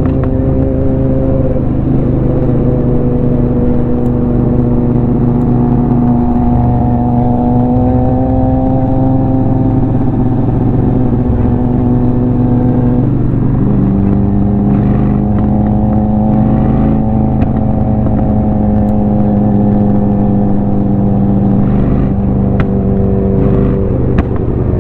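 Honda Shadow 750's V-twin engine running at a steady cruise, heard from the rider's seat. Its pitch rises at the start and changes about halfway through.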